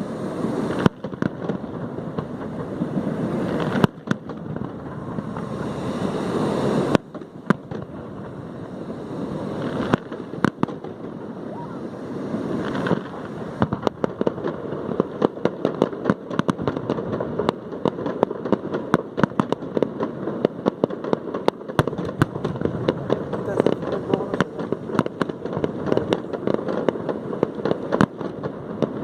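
Aerial fireworks display: a steady run of bangs and sharp cracks, thickening into dense crackling in the second half, over a noisy roar that cuts off abruptly a few times in the first half.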